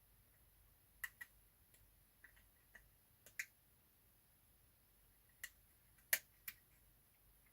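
Light, irregular clicks and taps of small metal tools against the radio's small parts, about ten in all, the sharpest about six seconds in.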